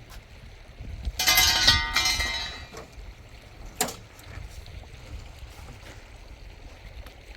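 A metal vessel clattering and ringing for about a second and a half, then a single sharp knock a couple of seconds later, over a low steady rumble of running water or wind.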